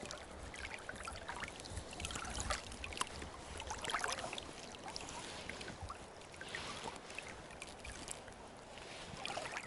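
Faint scattered small clicks and light rustling over a low, even hiss.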